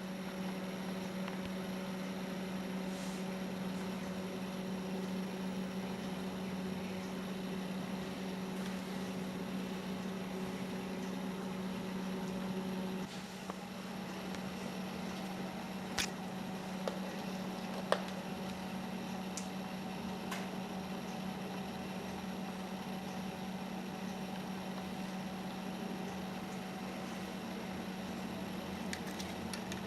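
Small electric cordless-drill motor running steadily, turning a model engine's pistons through a drive shaft, with a steady hum; its sound changes partway through, and a few light clicks come near the middle.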